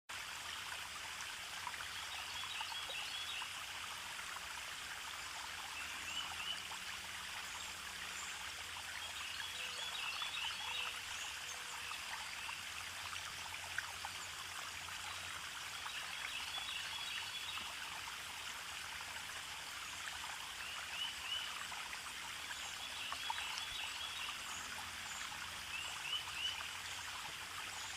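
Stream water trickling and running steadily. Clusters of short, high chirping calls come in every few seconds.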